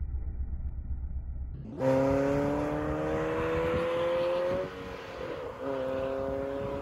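PGO Cevennes roadster's engine accelerating away. A low rumble comes first, then about two seconds in the engine note comes in loud and climbs steadily. Nearly five seconds in it dips at a gear change, then climbs again as the car draws off.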